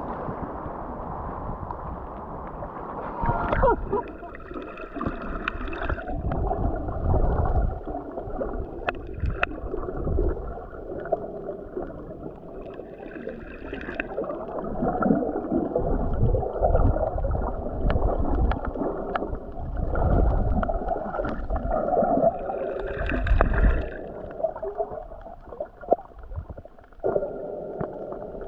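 Water gurgling and sloshing, with uneven low rumbling that rises and falls through the whole stretch.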